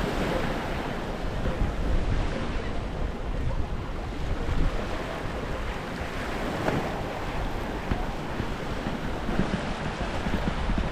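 Small waves washing on a sandy beach, with wind buffeting the microphone in an uneven low rumble.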